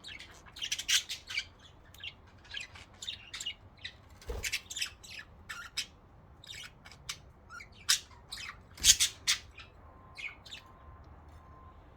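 Pet budgerigars calling in quick, scattered chirps. Two knocks, about four and nine seconds in.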